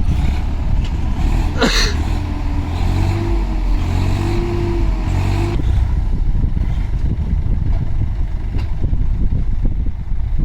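Heavy diesel engine of farm or earth-moving machinery running hard under load, with a single sharp knock about two seconds in.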